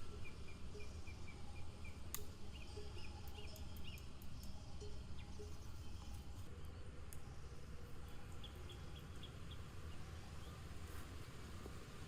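Forest ambience: a small bird calling in quick series of short high chirps, several separate runs, over a steady low outdoor rumble. A single sharp click comes about two seconds in.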